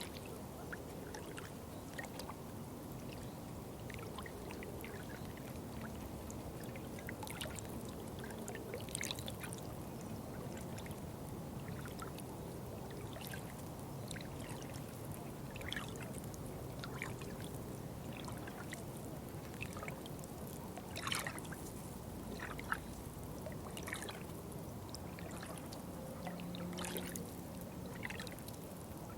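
Running water trickling and pouring steadily, with many small splashes and drips scattered through it.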